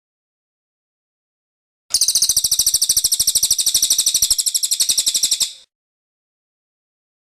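A cililin bird singing one rapid, high trill of quickly repeated notes, lasting about three and a half seconds and starting about two seconds in, with dead silence before and after.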